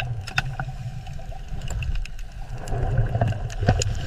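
Underwater recording: a steady low rumble with scattered sharp clicks and crackles.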